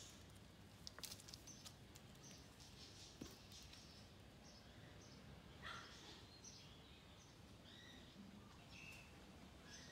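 Faint outdoor ambience with birds chirping now and then in short high calls, more often in the second half. A few faint clicks sound about a second in.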